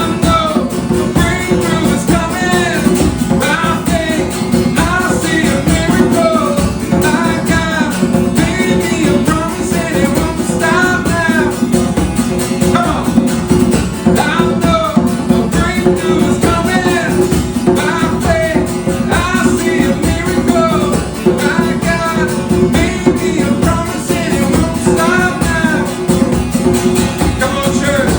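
Acoustic worship music: guitar playing steady chords under a sung melody without clear words.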